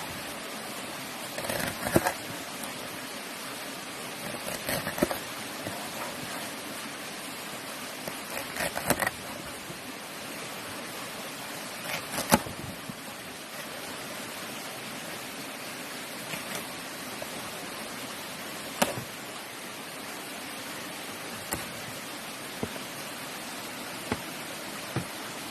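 Knife slicing an elephant apple fruit, with scattered sharp knocks of the blade: small clusters in the first half, then single knocks a few seconds apart. A steady rushing hiss lies under it.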